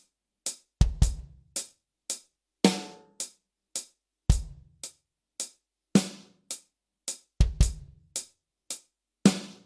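A drum kit playing a slow triplet-based groove: hi-hat strokes about twice a second, a deep bass drum hit every few seconds and snare backbeats, with the occasional quick double stroke.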